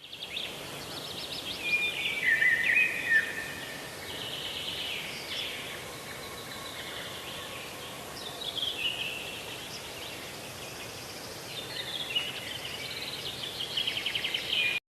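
Small birds chirping and twittering, with bursts of high chirps and quick trills coming and going over a faint steady hiss.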